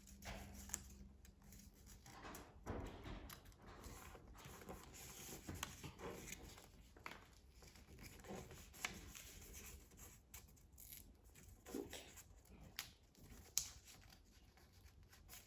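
Faint, intermittent rustling and creasing of a sheet of paper being folded by hand.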